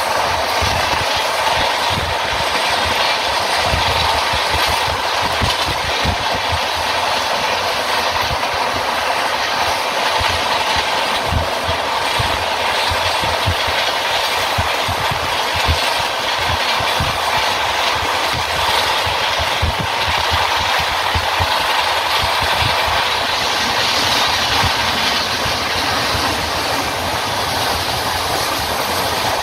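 Passenger express train coach running at speed: a steady rumble and rush of wheels on rails, with irregular clacks as the wheels pass over rail joints.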